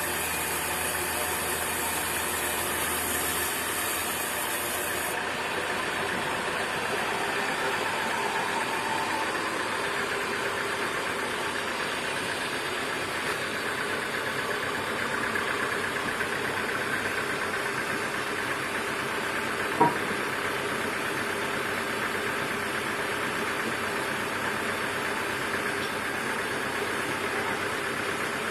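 Sawmill machinery running steadily, with one sharp knock about twenty seconds in.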